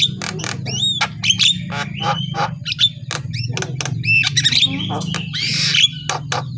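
Javan myna (jalak kebo) calling non-stop: a fast jumble of harsh squawks, sharp clicks and whistled notes that glide up and down, over a steady low hum.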